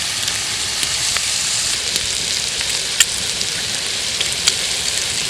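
Onions and curry leaves frying in hot oil, with squeezed tomato juice just poured in: a steady sizzle with scattered pops and crackles.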